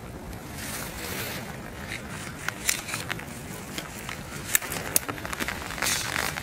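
Rain falling, with scattered sharp taps of drops on an umbrella overhead and wind rumbling on the microphone. The taps come thicker from about halfway through.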